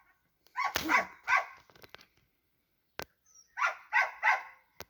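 A dog barking in two runs of three quick barks, with a single sharp click between them.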